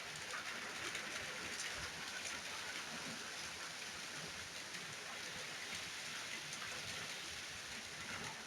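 Steady rain falling, an even hiss with the patter of drops striking surfaces.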